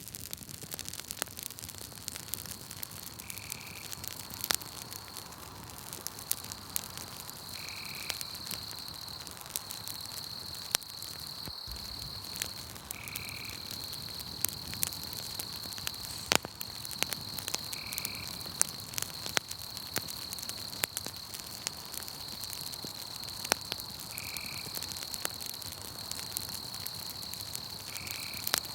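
Campfire crackling with scattered sharp pops, over a steady high-pitched insect trill of night woods. A short call, likely a frog, repeats about every four to six seconds.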